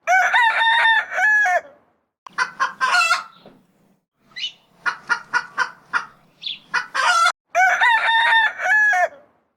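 Rooster crowing twice, once at the start and again near the end, with a string of short clucks in between.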